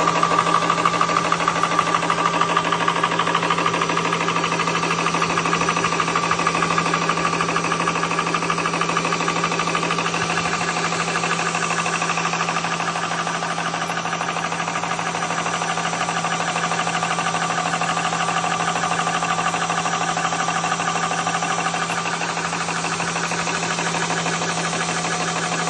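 Nuoge PCP high-pressure air compressor running steadily, with a strong low hum and a fast, even pulsing from its pump.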